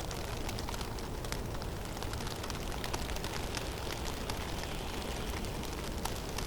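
Heavy snowstorm in a forest: a steady low rush of wind, with a dense, irregular patter of small ticks from snow striking nearby surfaces.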